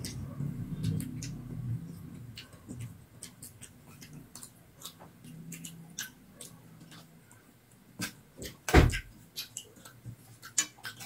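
Dry raw rice grains crunched between the teeth: a scatter of sharp crackling clicks, with one louder thump near the end.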